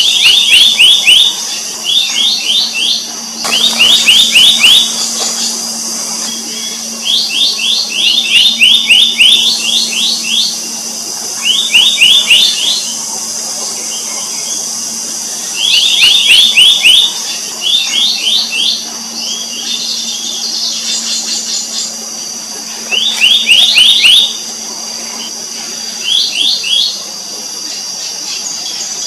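Black-naped monarch calling: quick runs of five to ten sharp, ringing notes, each run lasting a second or two and repeated every few seconds, over a steady high-pitched hiss.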